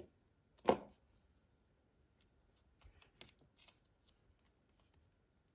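Hands handling small toy pieces and packaging: faint rustles and light clicks, with one louder brief rustle-like noise under a second in and a few sharper clicks around the middle.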